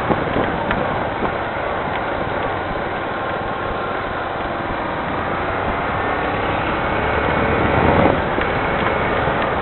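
Steady rain falling, mixed with the sound of a vehicle, which grows louder about eight seconds in.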